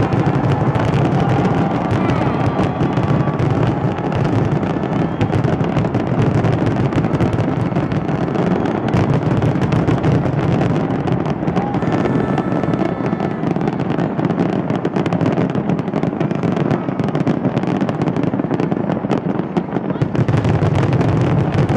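Fireworks display going off in a dense, unbroken barrage of bangs and crackles from aerial shells and spark fountains, with no let-up.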